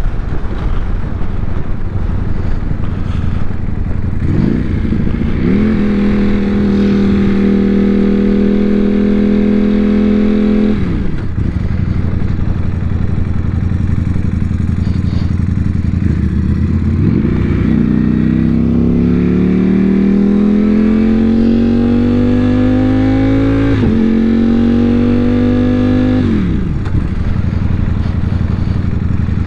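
Motorcycle engine heard while riding over a steady rush of noise: it revs up and holds a steady pitch, drops off, then climbs slowly under a long pull before falling away twice near the end.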